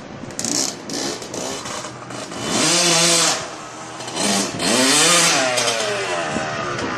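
Honda CR80 two-stroke dirt bike engine revving, its pitch rising and falling twice, about three seconds in and again near five seconds, with lower running in between.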